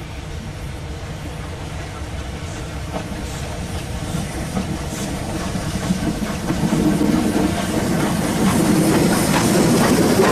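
A train approaching and growing steadily louder, its wheels clattering over the rail joints as it nears.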